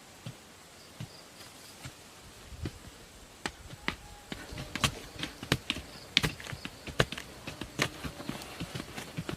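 Irregular knocks and taps, a few widely spaced ones at first, then coming thick and fast from about three and a half seconds in.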